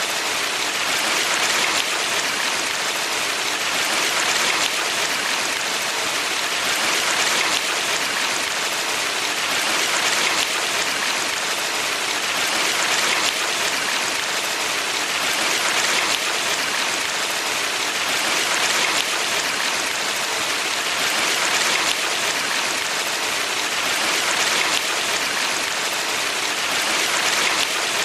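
Steady rushing and splashing of a mountain valley stream, gently swelling and easing every few seconds.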